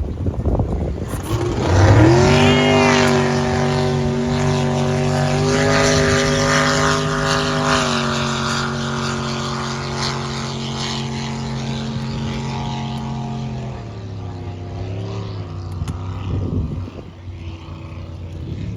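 Drag racing boat engines launching: a sharp rise in pitch about two seconds in, then a steady high-pitched run for about twelve seconds. Near the end they drop off to a lower, wavering note as the run finishes.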